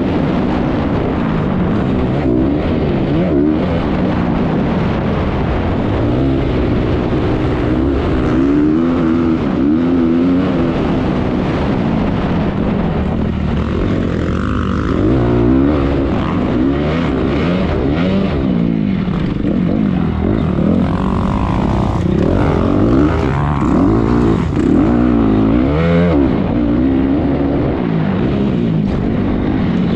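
Honda 250R motocross bike engine racing round a track, its revs climbing and dropping back over and over as the rider works the throttle and gears.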